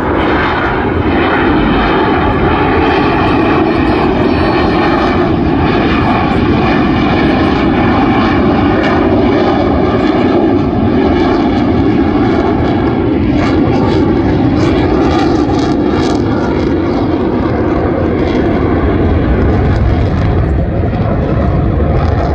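Loud, steady jet engine noise from Blue Angels jets flying over the beach.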